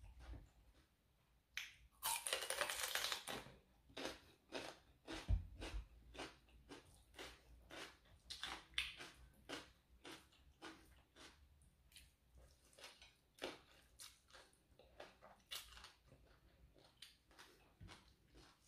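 Close-up chewing of spicy rice-noodle papaya salad (tam sua): a steady run of wet mouth clicks and smacks, about two a second, with a louder crunchy bite about two seconds in.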